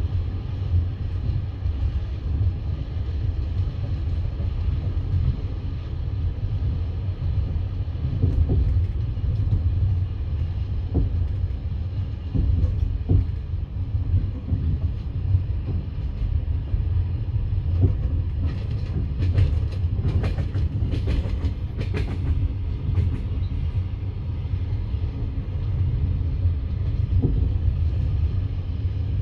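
Passenger train carriage running on the rails, heard from inside: a steady low rumble with the knock of the wheels over rail joints, and a run of sharper clicks about two-thirds of the way through.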